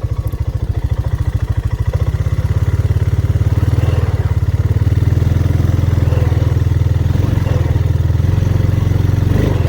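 Honda ATV engine held at high revs under heavy throttle, rising about two seconds in and then staying steady, as the quad sits stuck in a deep muddy spot with its wheels spinning.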